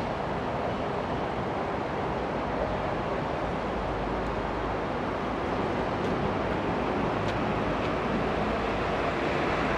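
Steady roadside traffic noise, a continuous rush of passing vehicles that grows slightly louder in the last few seconds.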